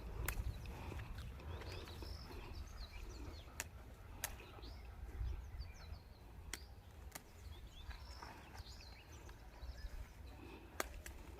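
Small birds chirping in short, scattered calls over a steady low rumble, with about half a dozen sharp clicks spread through.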